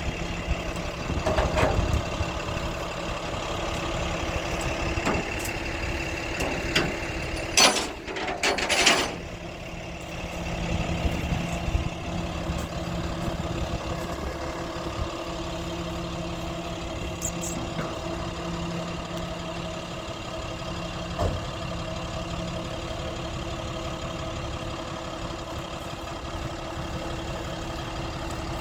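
Truck engine idling steadily, with two short, loud bursts of noise about eight seconds in.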